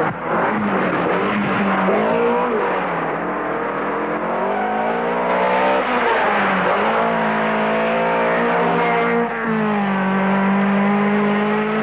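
Rally car engine revving hard, its pitch climbing and falling again and again as the driver works through the gears and lifts off, with brief dips about three, seven and nine seconds in.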